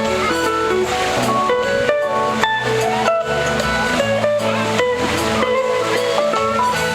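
Guitar music: plucked and strummed notes in a steady rhythm over repeating bass notes.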